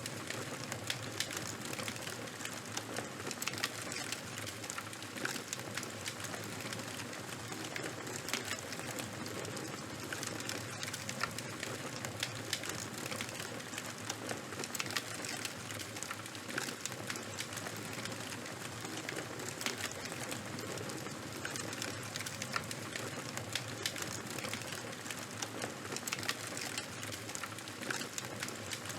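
Fire crackling steadily: a constant hiss with frequent sharp snaps and pops scattered irregularly through it.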